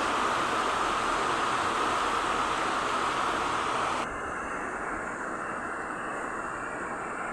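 Steady rushing outdoor noise of a rainy, windy evening, which switches abruptly to a quieter, duller hiss about four seconds in.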